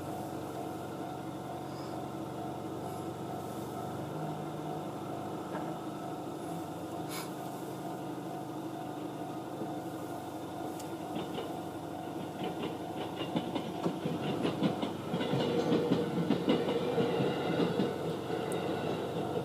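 Electric train passing a level crossing, growing louder from about twelve seconds in, with the wheels clacking rhythmically over the rail joints as it goes by.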